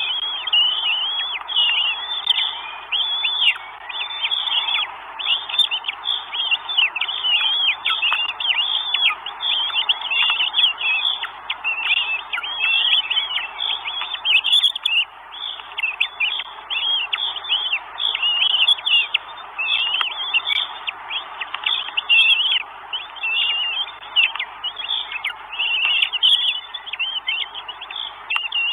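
Northern goshawk chicks begging at the nest: an unbroken stream of high, thin, down-slurred calls, several a second, as the nestlings are fed.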